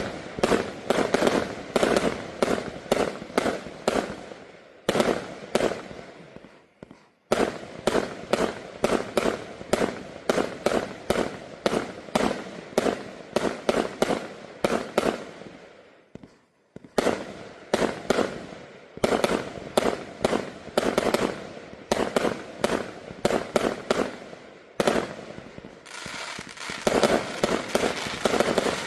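A 600-shot, 0.8-inch fan fireworks cake firing rapid volleys of sharp shots, about three or four a second, with short lulls about six seconds in, about sixteen seconds in, and again near twenty-five seconds.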